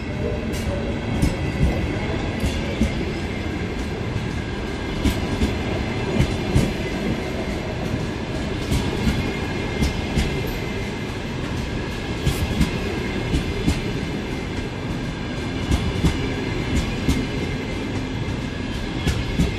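Passenger train rolling through the station, its wheels rumbling and clacking irregularly over rail joints and points.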